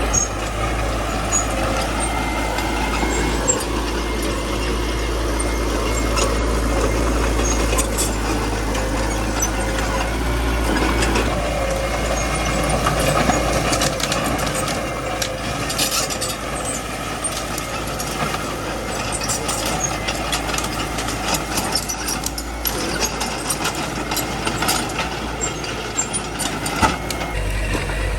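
Small bulldozer's diesel engine running steadily, with scattered sharp clicks and cracks over it.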